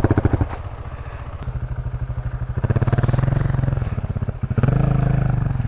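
Single-cylinder adventure motorcycle engine running at low speed on a rough trail, the throttle eased off shortly after the start, opened again about two and a half seconds in and once more a little later.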